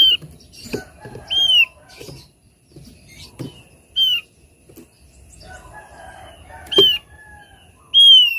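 Thick-billed white-eye calling: five loud, clear, down-slurred whistled notes a second or more apart, with softer chattering and low thuds between them.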